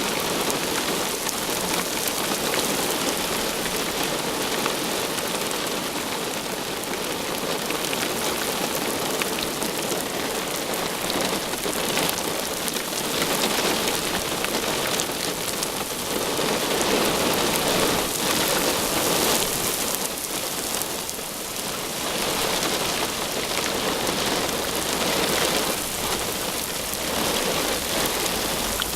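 Heavy rain pelting down, a dense steady patter of drops striking hard surfaces that swells and eases a little in intensity.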